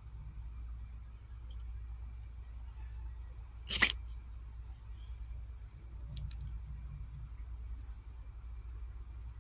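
A steady, high-pitched insect chorus, cricket-like trilling that holds without a break. A single sharp click comes about four seconds in.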